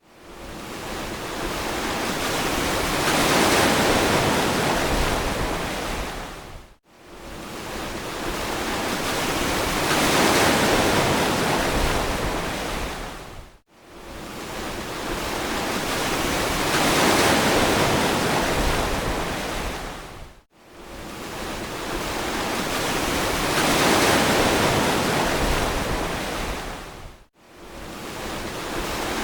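Waves breaking and washing on a beach, a wide hiss that swells and fades about every seven seconds. Between waves the sound drops sharply to near silence for a moment, at the same spacing each time, as when one recorded wave is looped.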